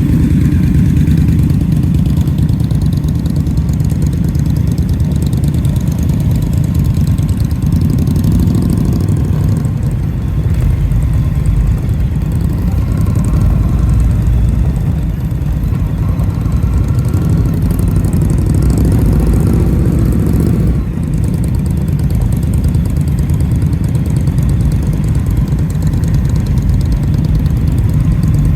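Motorcycle engine running steadily, its sound sitting low, with a brief drop in level about three-quarters of the way through.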